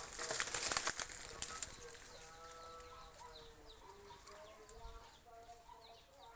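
A second or so of rustling and crackling, then soft repeated short bird chirps over faint, longer, lower animal calls.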